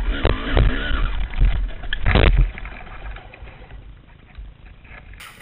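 Dirt bike engine and heavy rumbling in bursts, loudest about two seconds in, then quieter.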